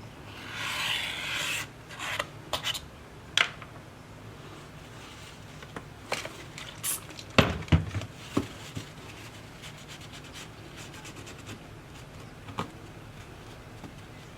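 Hand tools and small parts being worked on a tablet under repair: a short scraping rub, then scattered light clicks and taps, a cluster of the sharpest ones about halfway through.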